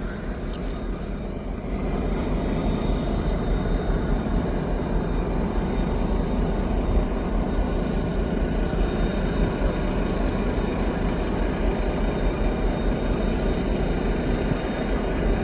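Steady vehicle rumble, a little louder from about two seconds in.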